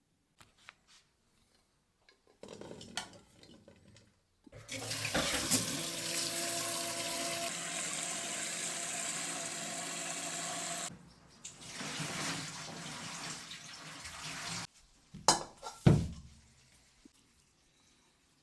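Water running from a kitchen tap into a sink, at full flow for about six seconds with weaker flow before and after, then two sharp knocks near the end.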